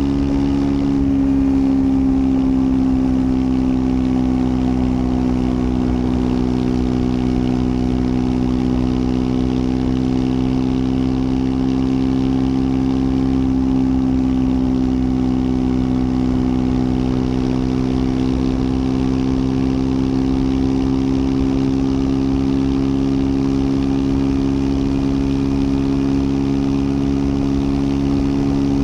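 Triumph Scrambler 400 X's single-cylinder engine running at a nearly constant engine speed, its pitch easing slightly about a second in and then holding steady.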